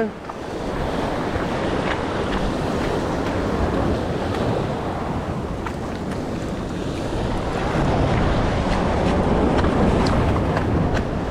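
Steady wind buffeting the microphone over waves washing against jetty rocks, with a few faint clicks.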